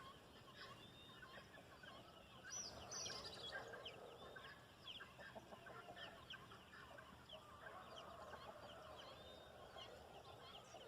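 Faint farmyard chickens clucking, mixed with many short, quick bird chirps.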